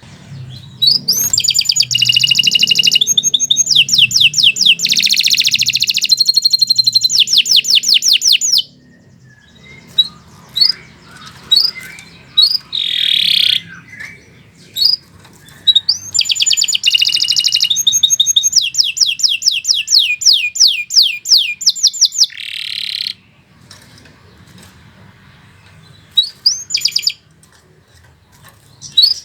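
Domestic canary singing: two long, loud phrases of rapid repeated trills, the first about eight seconds long and the second about six, with short single chirps between and after.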